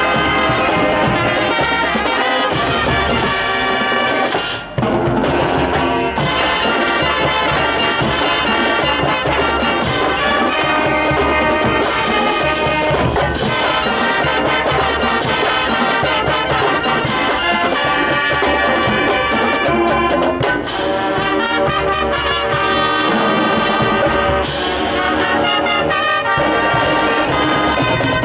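Marching band playing, with a loud brass section of trumpets and trombones holding out chords. There is a brief break in the sound about five seconds in.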